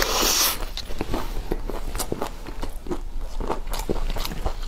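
A loud crunching bite into a crispy fried taco shell at the start, then crunchy chewing with many short uneven cracks. It is close on a clip-on microphone.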